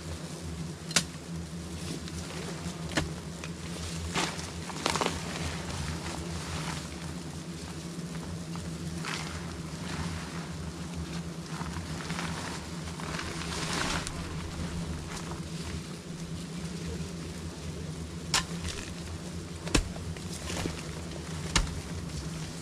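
Swarm of bees buzzing steadily, with scattered sharp clicks and knocks and a few brief rustles.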